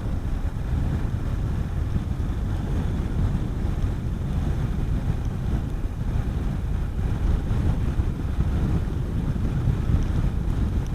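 Wind buffeting the microphone of a rider on a moving Honda CB400SS motorcycle, a steady low rumble with road and engine noise mixed in.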